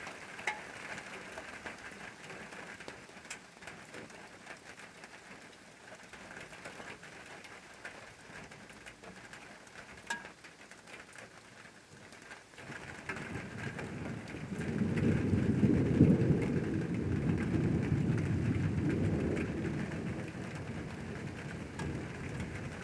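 Steady rain falling, with scattered drips. About halfway through, a long low rumble of thunder swells up and then slowly dies away.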